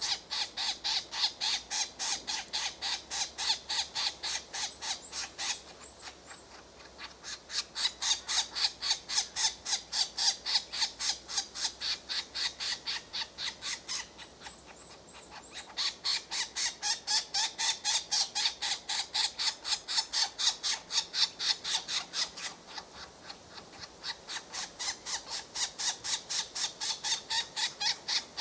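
Woodpecker making a long series of sharp, evenly spaced sounds, about four a second, in bouts of several seconds with short pauses between.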